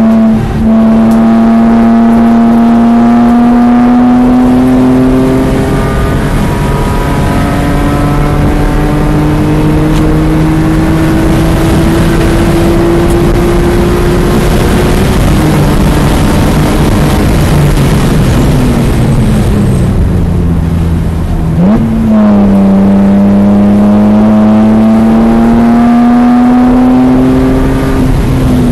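BMW E46 M3's S54 inline-six under hard acceleration, its pitch climbing steadily after a quick upshift about half a second in. About fifteen seconds in the throttle closes and the pitch falls under braking. A sharp rise in revs near 22 seconds marks a downshift, and the engine then pulls hard again, rising in pitch up to another shift at the very end.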